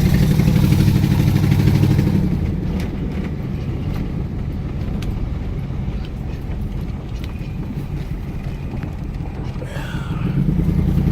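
Mud truck engine running while the truck drives, loud for the first couple of seconds, easing off to a lower note, then picking up again near the end.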